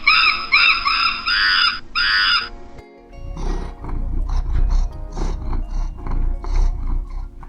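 A big cat growling and roaring in a run of rough, repeated snarls from about three seconds in. Before it comes a rapid series of high, arching calls, about two a second, that stops after two and a half seconds.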